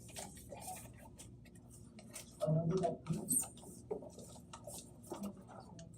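Sheets of paper being handled and folded by hand: scattered rustles, crinkles and small taps as the paper is creased, with a louder stretch about two and a half seconds in.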